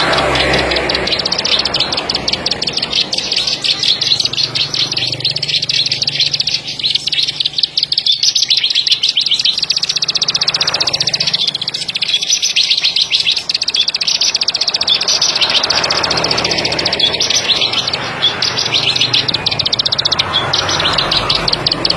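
Ciblek sawah (paddy-field prinia) singing a long, unbroken string of rapid, high-pitched ticking notes, many per second, like a fast trill.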